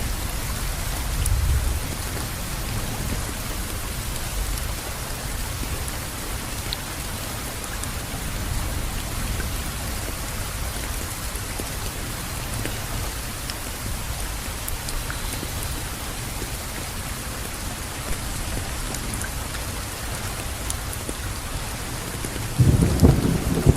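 Steady rainfall pattering on surfaces, with a low rumble underneath; near the end a loud rumble of thunder breaks in.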